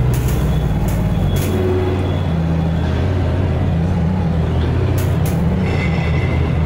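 Loud, steady low rumble of heavy vehicle noise, with a few sharp clicks and a brief high squeal near the end.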